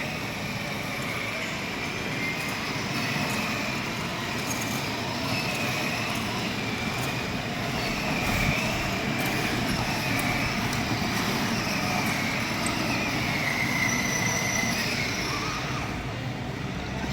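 Kids' ride-on cars running around a track: a steady running noise with faint wavering high tones over it.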